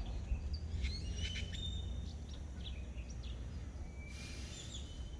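Birds chirping and calling, with many short chirps and brief whistled notes, over a steady low rumble.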